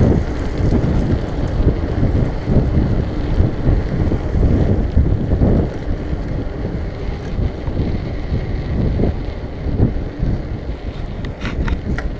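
Wind buffeting the action camera's microphone on a moving mountain bike, a loud low rumble, with a few sharp clicks near the end.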